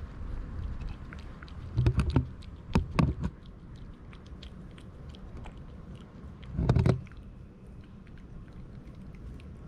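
Cats chewing and biting at food close by, with many small clicks. Three louder low thumps come about two, three and seven seconds in.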